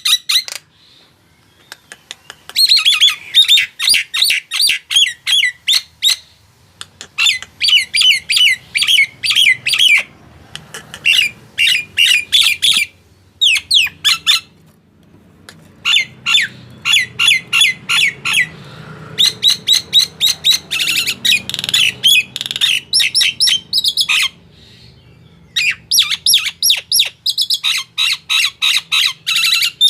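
Male Nias hill myna calling loudly in phrases of rapid, repeated shrill notes, each phrase a few seconds long with short pauses between them.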